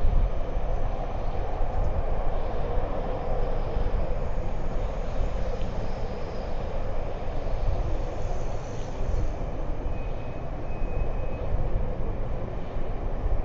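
Steady outdoor rumble of street ambience, like vehicle traffic, with a faint brief high tone about ten seconds in.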